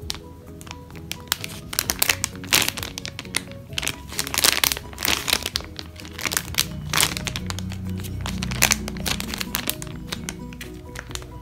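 Plastic packaging crinkling and crackling in irregular bursts as squishy toys in their plastic bags are handled, loudest about two to five seconds in, over background music.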